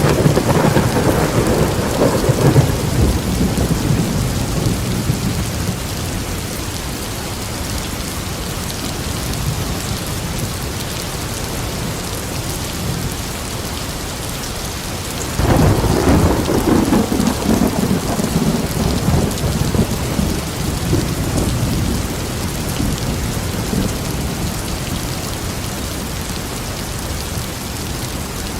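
Steady heavy rain falling, with two rolls of thunder rumbling over it: one right at the start and another that breaks in sharply about halfway through. Each rolls on for several seconds and fades back into the rain.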